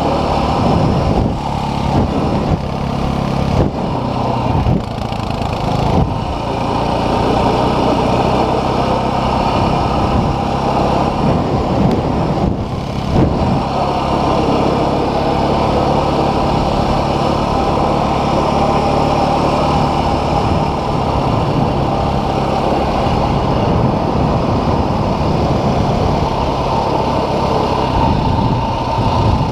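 Dual-sport motorcycle engine running at a steady speed, with a few brief dips in the first few seconds.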